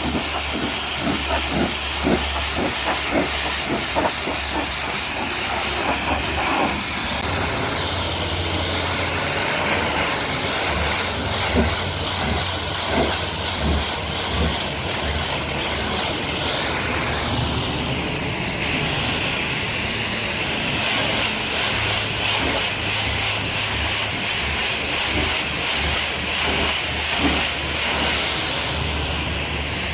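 High-pressure washer jet spraying water onto a truck: a steady loud hiss of spray, over a low hum that comes and goes.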